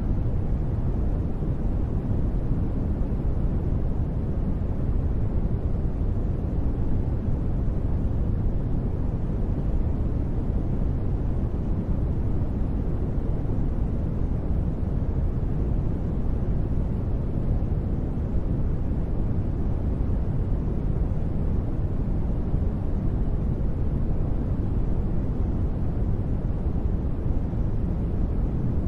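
Continuous steady white noise for sleep, deep and muffled rather than hissy, its weight low and falling away in the highs, with no changes or sudden sounds.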